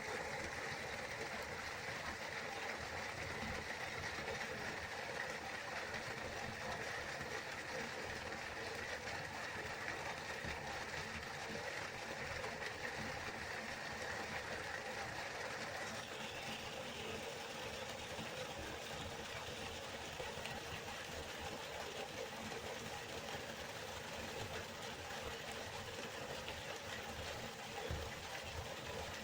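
Waterfall rushing steadily, a continuous even roar of falling water; about halfway through, its tone shifts slightly brighter.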